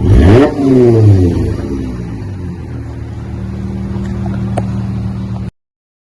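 2021 Dodge Charger GT's 3.6-litre V6 exhaust, through a dual-in, dual-out Flowmaster Super 10 and a rear muffler delete, blipped once: a quick rev that rises and falls back to a steady idle within about two seconds. The sound stops abruptly near the end.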